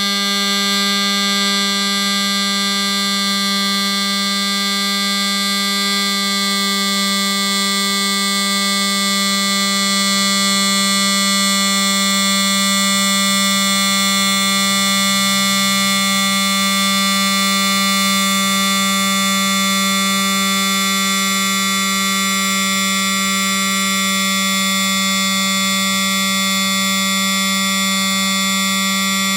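A steady electric buzz held at one fixed pitch, unchanging in level.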